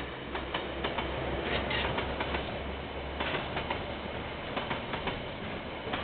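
Freight train's container wagons rolling past, their wheels clicking and clattering irregularly over a steady low rumble.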